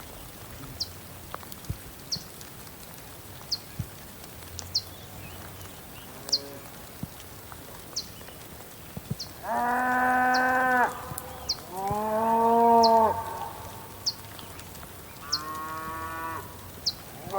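Cattle mooing: three moos of about a second each in the second half, with another starting at the very end. Short high chirps repeat about once a second throughout.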